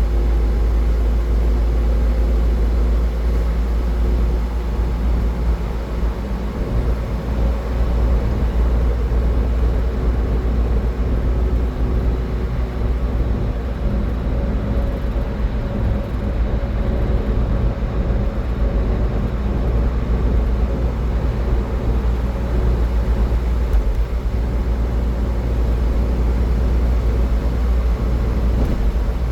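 Car travelling at highway speed: a steady low rumble of tyre, road and engine noise, with a faint steady hum in it.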